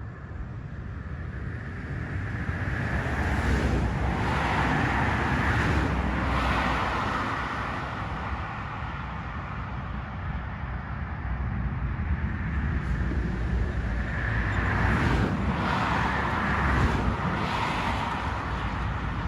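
Road traffic: two cars pass by, one swelling up about three seconds in and fading, the second about fourteen seconds in, over a steady low rumble.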